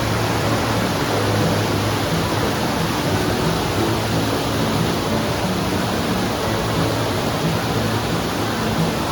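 Rushing mountain stream tumbling over rocks: a loud, steady rush of white water.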